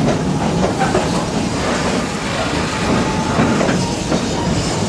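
Open-air park train rolling along its track, heard from a passenger car: a steady running noise of wheels and cars on the rails.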